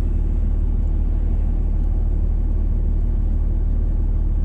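Steady low drone of a vehicle being driven, engine and tyre noise heard from inside the cab.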